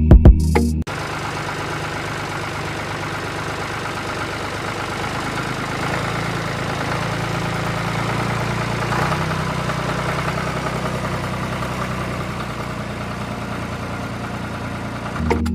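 A small motor running steadily, its pitch shifting a little a few times.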